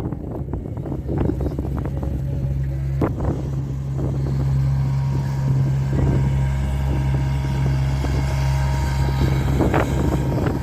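Steady low engine hum from a nearby vehicle, starting just after the opening and holding even, with wind rushing on the microphone and a few scattered knocks.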